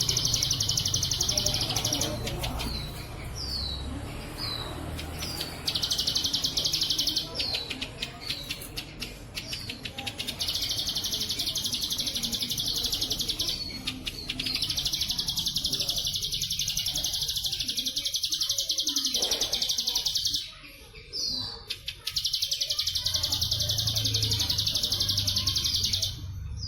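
Ciblek sawah (prinia) singing a bren cililin-style song: long rasping, buzzing trills of one to four seconds, alternating with short downward-sliding chirps. A low rumble runs underneath.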